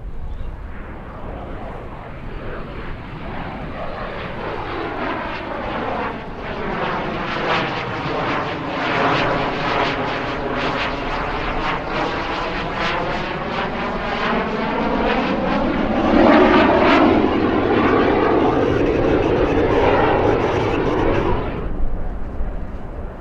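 CT-114 Tutor jet trainers passing by, their single turbojet engines building to a loud, steady jet noise. The tone sweeps down and back up as they go past, then drops away sharply near the end.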